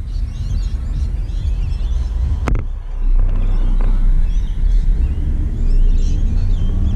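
Wind buffeting a camera's microphone on the roof of a moving car, over a steady low road rumble. A single sharp click about two and a half seconds in.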